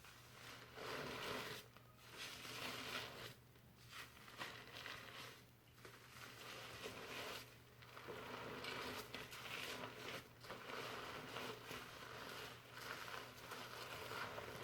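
Fingers scrubbing shampoo lather through hair: a crackly, rustling sound of foam and wet hair, in strokes broken by short pauses every couple of seconds.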